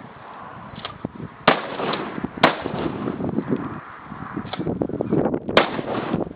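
Shotgun shots: two loud reports about four seconds apart, each trailing off, with a sharper crack between them and softer pops.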